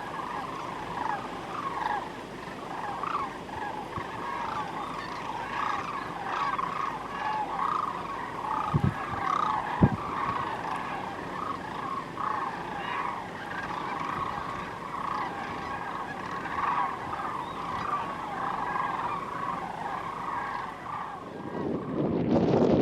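A large flock of birds calling, many short honking calls overlapping without a break. Two brief knocks sound near the middle.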